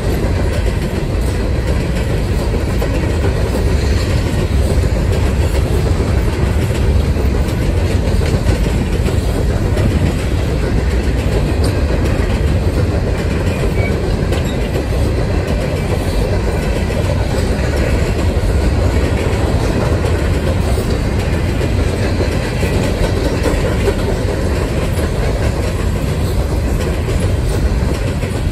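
Empty coal cars of a freight train rolling past at steady speed: a loud, even rumble of steel wheels on rail with some clickety-clack over the joints.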